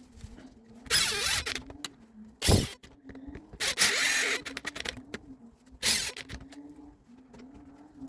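Four short bursts of rasping, hissing noise over a steady low hum, with small clicks between them: workshop handling and working sounds on the tool being serviced.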